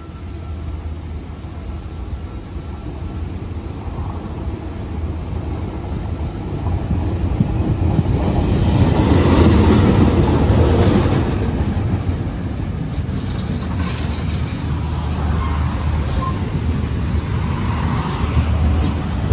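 Sri Lanka Railways Class M4 diesel locomotive approaching and passing close by, its engine and running gear growing louder to a peak about nine to ten seconds in as the locomotive goes past. Then comes the steady rumble of the passenger coaches rolling by, with scattered wheel clicks.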